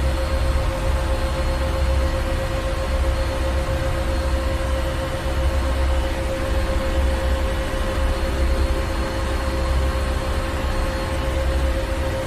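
Ship's engine room: heavy machinery running steadily with a deep, slowly swelling rumble, a constant hum and a wash of hiss.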